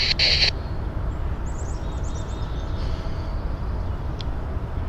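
A scanner radio's burst of static hiss cuts off sharply about half a second in, the squelch tail after a CSX defect detector's report. Then birds chirp over a steady low rumble.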